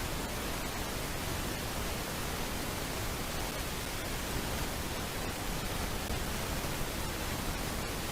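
Steady, even hiss of static from a nest camera's microphone, with no bird calls.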